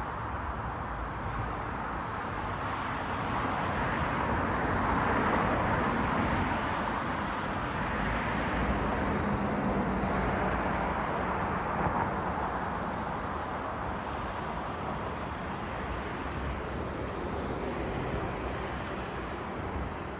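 Steady city road traffic: a wash of tyre and engine noise from passing cars. It swells a little as vehicles pass in the middle and eases off near the end.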